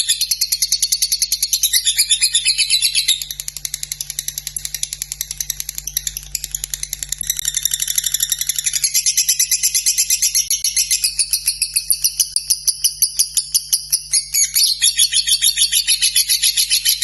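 Lovebird in long, unbroken 'ngekek' song: a fast run of high, chattering notes at about eight a second, shifting its pattern every few seconds without a pause.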